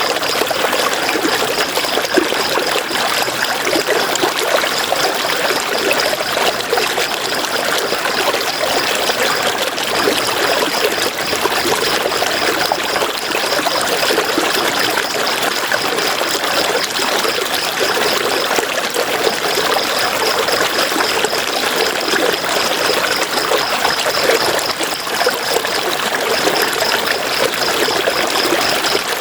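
River water flowing and splashing steadily. A high, pulsing trill runs over it and breaks off briefly a few times.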